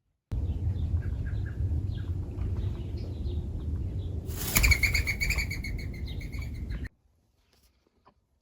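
Small birds chirping over a low rumble. A little past four seconds in, a loud, harsh bird call with clear overtones stands out for about two seconds. The sound starts and stops abruptly.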